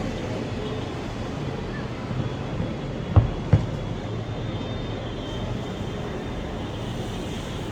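Fireworks shells bursting: two sharp booms about a third of a second apart, a little past three seconds in, over a steady background din.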